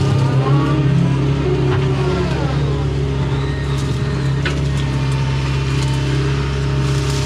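Doosan hydraulic excavator heard from inside the cab, its diesel engine running steadily under load while digging muck from a ditch. A hydraulic whine glides up and down in pitch over the first couple of seconds, and a few short knocks and scrapes come from the bucket and linkage later on.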